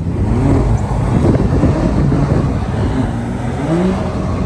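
BMW M3's S55 twin-turbo inline-six revving hard, its pitch climbing and falling over and over, with a dense hiss that fits tyres spinning on wet pavement during donuts.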